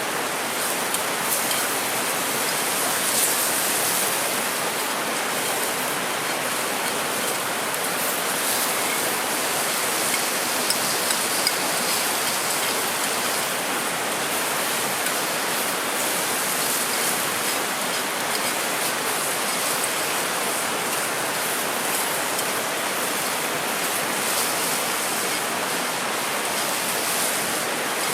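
Mountain stream rushing steadily over rocks, an even hiss of flowing water, with a few faint clicks a little before the middle.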